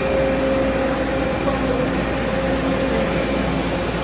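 Mushroom-substrate mixing machine running: a steady mechanical hum with a constant tone held over it.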